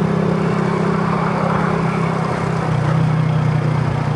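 A vehicle engine running at a steady low hum in slow traffic, its pitch dropping slightly about three seconds in.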